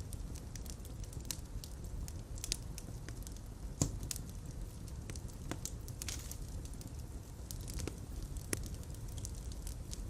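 Fireplace fire burning with a steady low rumble and scattered crackles and pops, two sharper pops standing out about four seconds in and near the end.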